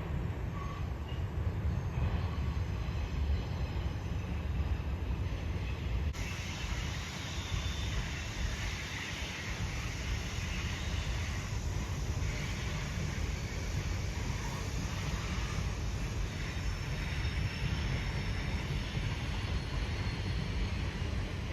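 Freight train rolling past, a steady low rumble of its cars on the rails, with a brighter rushing noise of wheels added from about six seconds in.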